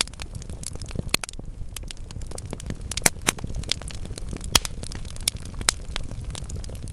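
Wood fire burning in a fireplace: a steady low rumble of flame with irregular crackles and several sharp pops from the logs.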